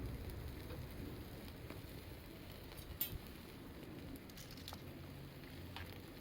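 Wood fire crackling over a low steady rush, with scattered sharp pops, the loudest about three seconds in.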